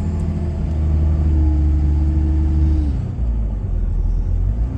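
Pickup truck driving, heard from inside the cab: a steady low rumble of engine and road, with a held engine note that drops away about three seconds in.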